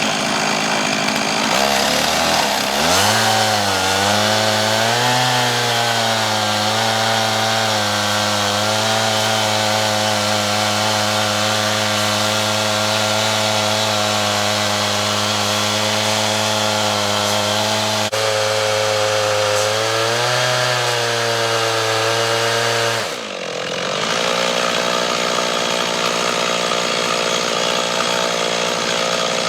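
Stihl MS 391 two-stroke chainsaw held at high revs as it rips lengthwise through a green cedar log in a chainsaw mill. The engine note climbs as the cut is taken up a couple of seconds in, then holds steady under load, sagging briefly about twenty seconds in. About twenty-three seconds in there is a sudden break, and the saw then runs on at a different pitch.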